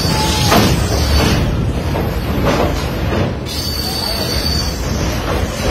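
Train running across a steel railway bridge, heard from an open carriage doorway, with wind buffeting the microphone: a loud, steady rush of noise that is heaviest in the low end.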